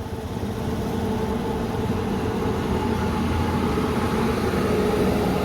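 Steady low hum of a motor vehicle running nearby, with a faint steady tone above it, growing slightly louder.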